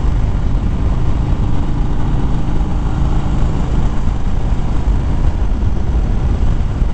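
Harley-Davidson Fat Bob V-twin motorcycle engine running steadily at road speed, under a constant rush of wind noise on the microphone.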